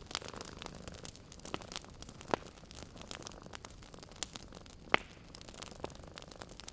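Wood fire crackling: a low hiss with irregular sharp pops and snaps, the loudest about two and a half and five seconds in.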